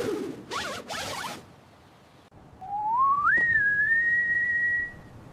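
Cartoon whistle sound effect: a single clear tone glides upward in pitch, then holds steady for about a second and a half before stopping. A couple of short noisy bursts come in the first second and a half.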